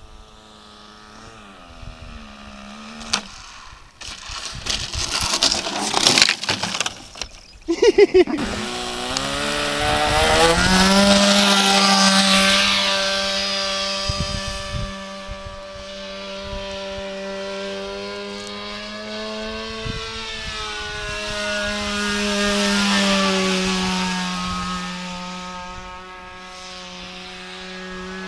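RC model airplane engine buzzing in flight, its pitch and loudness slowly rising and falling as the plane passes by, with gusty wind on the microphone for a few seconds before the engine comes up loud.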